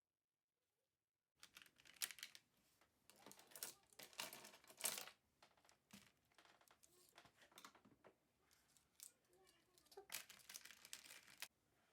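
Rustling and crinkling of something being handled, in irregular bursts with a few sharper rustles, starting about a second and a half in and cutting off near the end.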